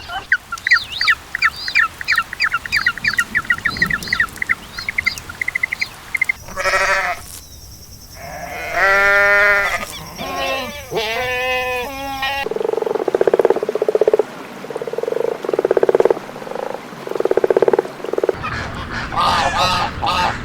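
Several different animal calls in turn: a fast run of short chirps, then pitched calls, then a frog croaking in a string of even pulses, then another call near the end.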